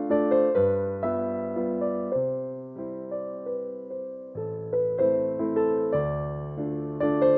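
Slow, gentle piano music: single notes struck a few times a second and left to ring and fade over held low bass notes.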